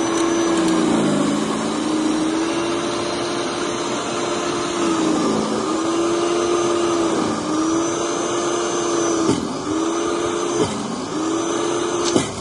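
A steady motor hum with a high whine above it, the pitch dipping briefly and recovering several times, with a couple of short clicks near the end.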